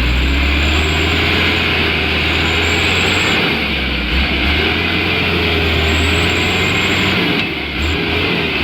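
Mitsubishi Canter light truck's diesel engine running under load, with a pitch that wavers up and down, as the truck struggles to climb a steep incline.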